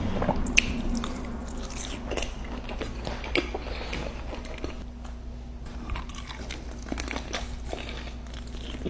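Close-up biting and chewing of crispy chicken wings, with irregular crunches and wet mouth sounds.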